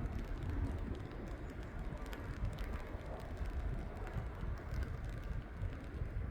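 Wind buffeting the microphone outdoors: an uneven, gusty low rumble.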